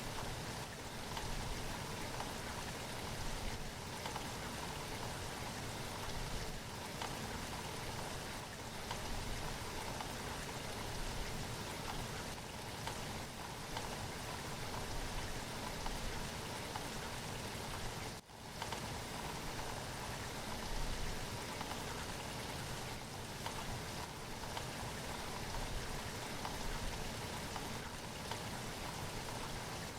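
Steady rain falling, an even hiss of drops on surfaces, with a momentary drop in level about two-thirds of the way through.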